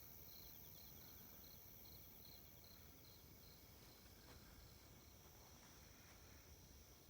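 Faint chirping of a cricket-like insect, about three evenly spaced chirps a second, fading out about halfway through, over a steady quiet background.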